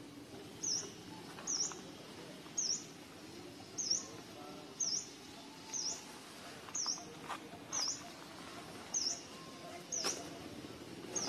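A bird repeats a short, high chirp about once a second, each note dipping and rising quickly in pitch, over faint outdoor background noise.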